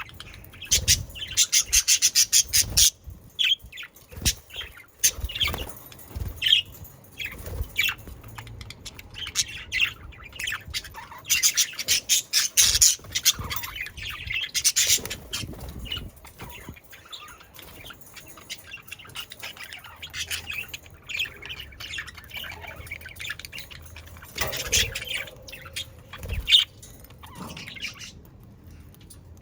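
A flock of budgerigars chattering, warbling and squawking, with a busy stretch of rapid chirps and harsh calls in the first half that thins to scattered calls near the end.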